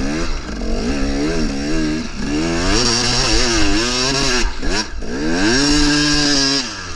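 Two-stroke KTM 300 dirt bike engine revving up and down repeatedly under the throttle, then held at higher revs for about a second before dropping off near the end.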